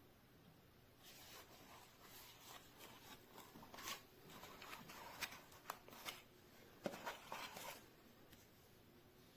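Faint rustling and scattered light clicks, as of something being handled, from about a second in until near the end, with the loudest clicks around five to seven seconds in.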